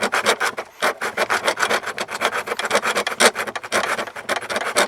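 Hand saw cutting through the plastic HVAC case of a 2012 Chevy Caprice PPV to reach the heater core. It is a fast, even run of back-and-forth rasping strokes, several a second.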